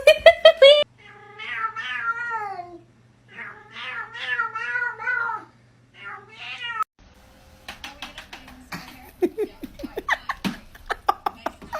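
Cat meowing: a quick run of short calls, then two long, wavering, drawn-out yowls and a short meow. After a sudden cut comes a run of short sharp clicks and taps, some with a brief pitched note.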